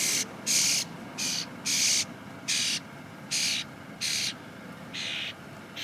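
A bird repeatedly giving short, harsh, hissing calls, about nine in a row, roughly one every two-thirds of a second, typical of a hungry bird begging for food.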